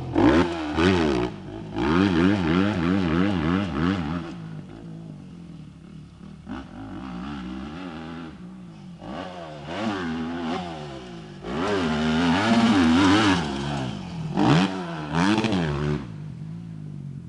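Motocross bike engine revving up and easing off again and again as it is ridden round the track. It is loudest in bursts near the start and again in the latter half, quieter in between.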